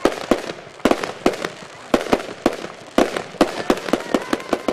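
Fireworks going off in quick succession: a string of sharp bangs, several a second at uneven intervals, each with a short echoing tail.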